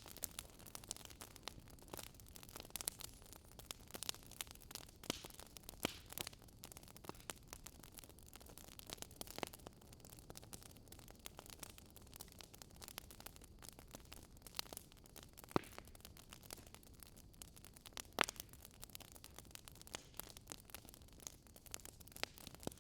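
Campfire ASMR: wood fire crackling softly, with irregular pops and snaps over a low hiss, and a few louder snaps now and then.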